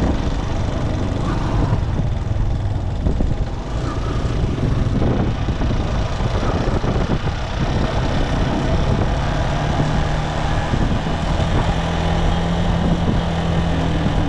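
Motorcycle engine running with road and wind noise while riding in traffic; a steadier engine tone comes in about two-thirds of the way through.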